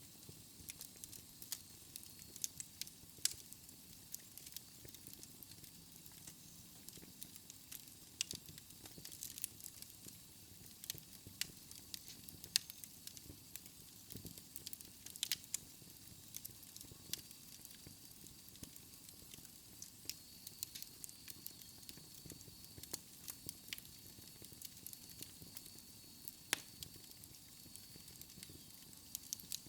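Wood logs burning in a fireplace, crackling with irregular sharp pops and snaps over a soft low rush of flame.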